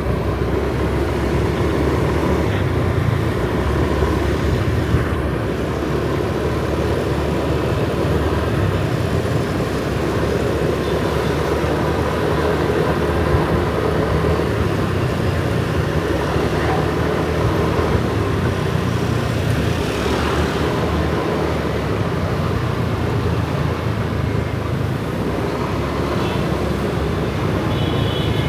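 Kawasaki ZX-4RR inline-four motorcycle engine running at a steady pace through city traffic, mixed with wind and road noise. A brief high-pitched tone comes in near the end.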